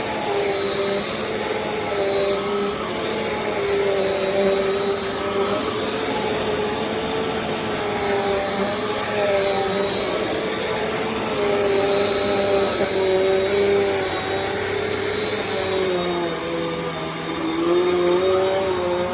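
Bissell CleanView Compact upright vacuum cleaner running: a continuous motor hum with a thin high whine over it, its pitch wavering slightly and dipping briefly near the end.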